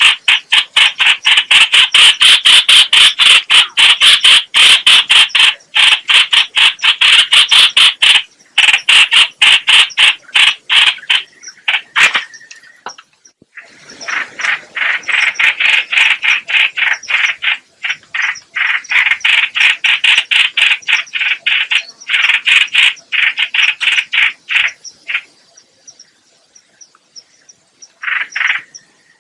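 Trao trảo (chao chảo) bird calling in a long, rapid chatter of harsh, evenly repeated notes, about five a second, broken by short pauses and a longer gap near the end. It is a decoy call recording of the kind used to lure birds into traps.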